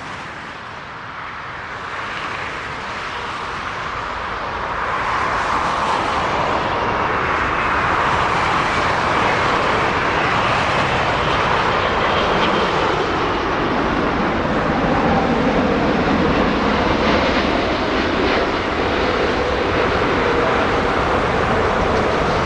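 Jet airliner's engines growing louder over the first five seconds or so as the plane approaches, then holding at a steady loud level with a faint whine in the noise.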